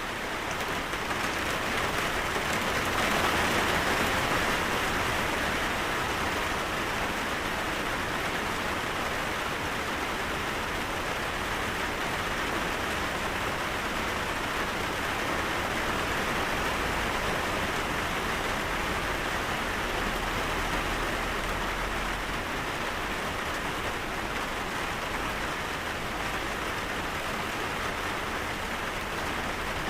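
Steady rain falling, a dense, even hiss of drops that swells slightly a few seconds in.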